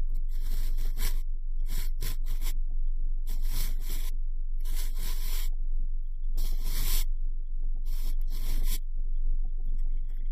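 Cotton swab swirling and rubbing in a binaural microphone's ear: scratchy rustling strokes, each under a second long, repeating about every one and a half seconds over a steady low hum.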